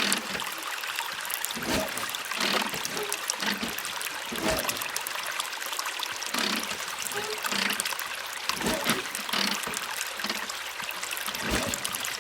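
Water trickling and pouring from a miniature hand pump, surging in uneven spurts about once a second as the pump is worked.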